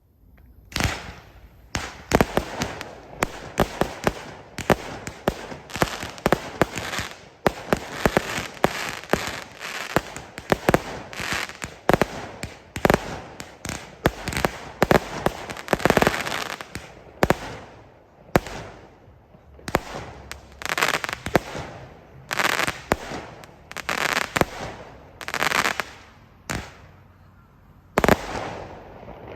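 Consumer firework barrage cakes firing several at once: rapid, irregular, overlapping shot launches and aerial bursts, several bangs a second. Later the bangs come more spaced out as louder single reports.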